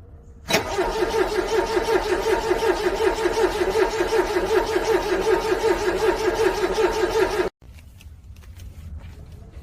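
A car's starter cranking a cold engine, a loud, even, rapid pulsing that starts abruptly about half a second in and runs for about seven seconds without the engine catching, then cuts off sharply. Each pulse is the engine turning over against compression, typical of a hard start in freezing cold.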